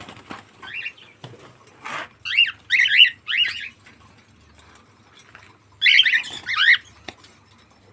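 Cockatiel chirping in clusters of quick falling notes: a short call about a second in, a louder run from about two to three and a half seconds, and another run near six seconds.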